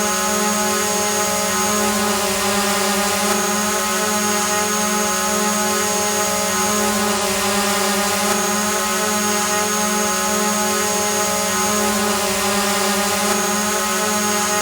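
Multirotor drone hovering: a steady whirring hum of motors and propellers with a constant pitch, repeating as a loop about every five seconds.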